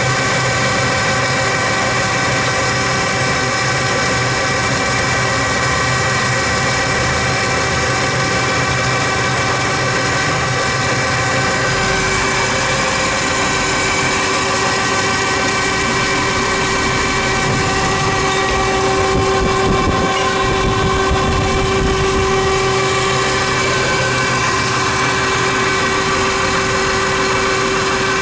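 Denzel Samurai electric motorcycle running at a steady speed on a laboratory test rig: a steady whine made of several constant pitches. About two thirds of the way through, one of the middle pitches briefly grows stronger.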